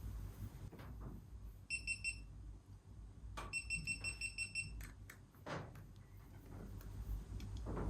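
Electronic beeper sounding: a short run of quick high-pitched beeps about two seconds in, then a longer run of quick beeps, over faint clicks and knocks of parts being handled.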